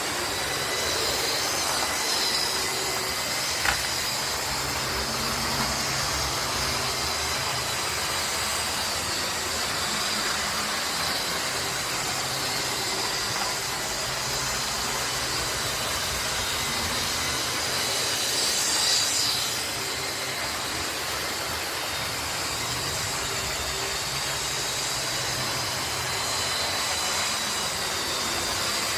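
Model class 37 and class 47 diesel locomotives running on a model railway layout: a steady rumble of motors and wheels on track that rises and falls, with a single sharp click a few seconds in and a brief high-pitched squeal about two-thirds of the way through.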